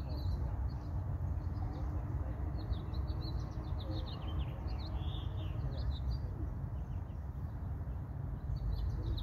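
Small birds chirping, many short high chirps scattered throughout, over a steady low rumble of outdoor background noise.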